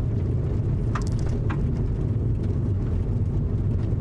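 Steady low road and engine rumble inside a moving car, with a couple of faint brief sounds about a second in.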